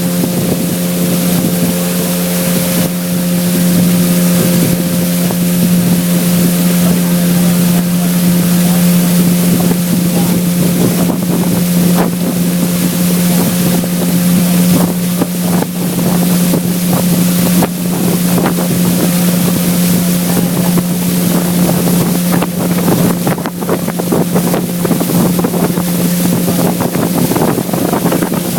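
A river boat's outboard motor running at a steady, unchanging pitch while under way, with rushing wind and water noise over it that grows choppier in the second half.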